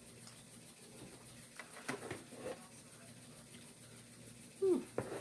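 Soft chewing and mouth sounds of a person eating, a few faint smacks and clicks, with a brief hummed vocal sound near the end.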